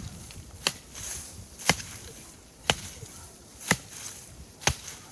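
Double-bit axe chopping into the trunk of a small cedar tree: five sharp strikes, about one a second.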